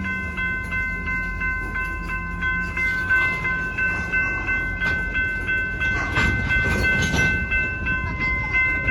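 Railroad crossing bell ringing in steady, evenly repeated strokes over the low rumble of a slow-moving train, with a burst of wheel clatter on the rails about six seconds in.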